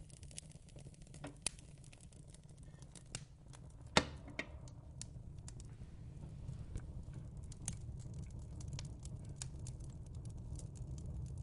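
Fireplace crackling: irregular small pops and snaps, one sharper snap about four seconds in, over a low steady rumble.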